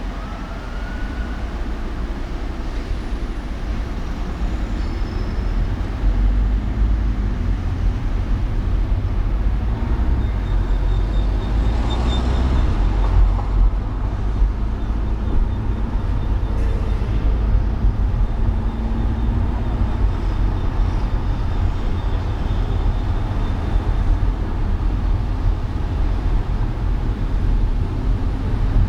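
Steady road and traffic noise from a car driving on city streets, with a deep low rumble throughout. A brief louder swell comes about twelve seconds in, like a vehicle passing close by.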